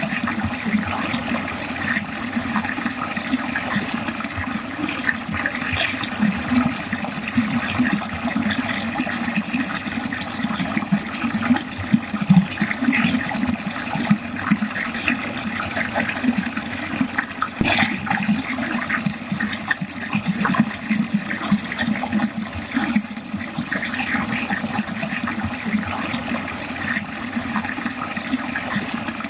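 Water flowing steadily down a drain, a continuous gurgling and splashing, with one brief sharp splash or click about two-thirds of the way through.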